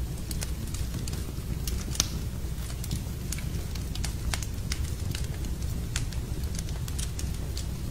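Wood fire burning in a fireplace: a steady low rumble of the flames with irregular sharp crackles and pops, the loudest pop about two seconds in.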